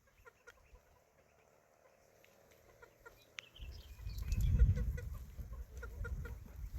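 Domestic chickens clucking in short, scattered calls. About halfway through, a loud low rumble comes in over them and stays.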